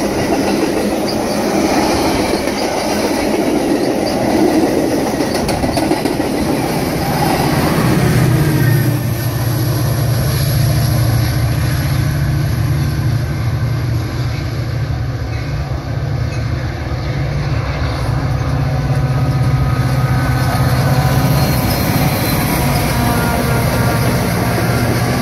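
Bilevel passenger cars rolling past close by with a dense wheel rumble and clatter. From about eight seconds in, the steady low drone of a Metra diesel locomotive's engine takes over as it approaches and passes.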